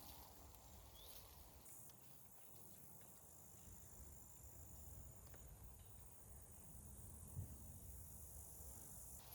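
Near silence with faint, steady, high-pitched trilling of crickets.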